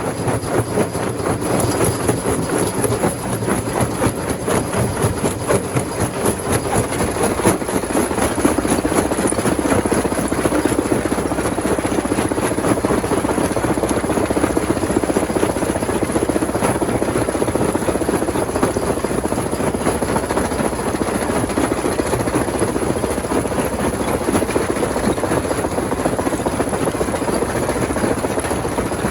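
Rock crusher machine running, a steady heavy mechanical rumble with a dense, continuous rattle and crackle of stone being broken.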